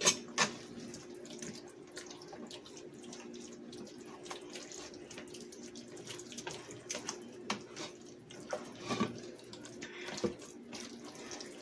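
Flour-thickened gravy simmering in the pan, faintly bubbling with many small pops, over a steady low hum.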